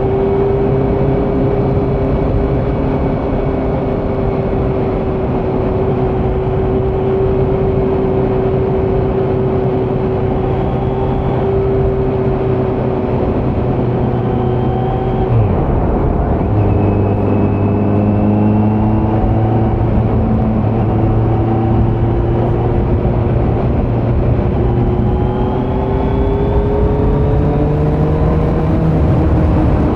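Kawasaki Z900 inline-four engine running through a Leo Vince muffler with no dB killer, heard from the rider's seat on the move. The revs hold steady, drop with a gear change about halfway through, then climb slowly toward the end.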